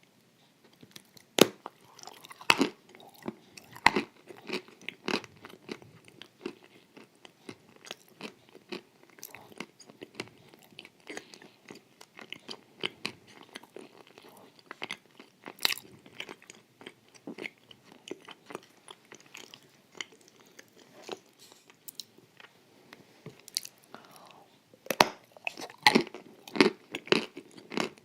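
Close-up eating sounds: crisp wafers with cream being bitten and chewed, a steady run of sharp crunches and wet chewing, with a louder flurry of crunchy bites near the end.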